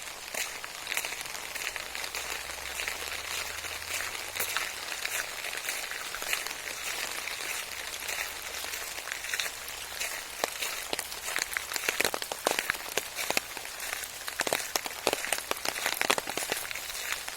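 Rain falling steadily: a constant hiss with many individual drops ticking close by, the drops louder and more frequent in the second half.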